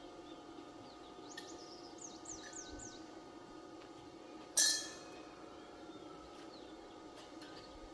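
Small birds chirping, a quick run of high, downward-sliding chirps in the first few seconds, over a steady low hum. About halfway through, a single sudden sharp knock, the loudest sound, rings briefly.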